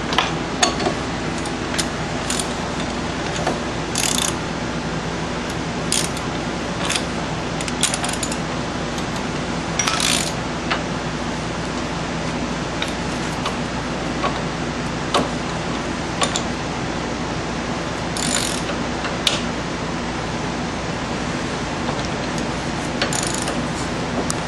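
Hand ratchet clicking in short runs while tightening the front brake caliper bracket bolts, with scattered metal clicks and knocks between the runs.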